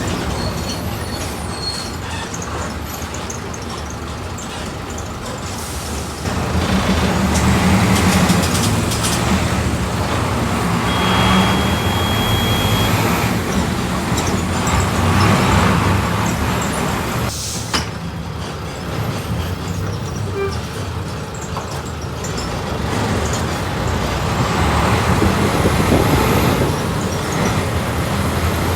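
Volkswagen 17.230 OD city bus engine running as the bus drives, heard from inside the bus; it pulls harder and louder about six seconds in, then rises and eases with the traffic. A short high beep sounds partway through, and a sharp click comes later.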